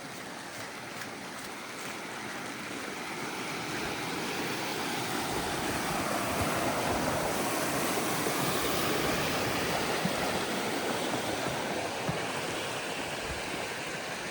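Wind gusting through a snowstorm: a rushing noise that builds, is loudest in the middle and eases off near the end.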